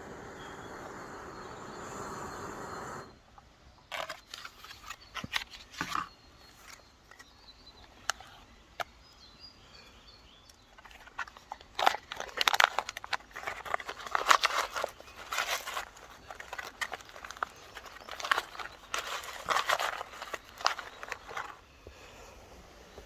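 Crinkling and rustling of plastic or foil packaging being handled in irregular bursts, after a steady outdoor hiss that cuts off about three seconds in.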